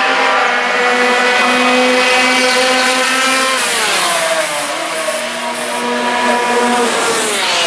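Racing motorcycle engine running hard at high revs, its pitch holding steady, then falling about halfway through and again near the end as the revs drop.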